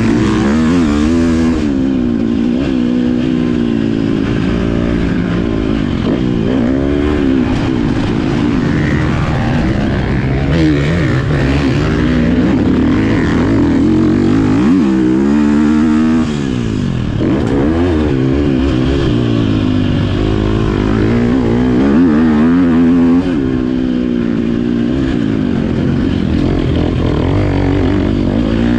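Motocross bike engine revving up and down repeatedly, rising and falling in pitch every second or two as it rides a dirt track.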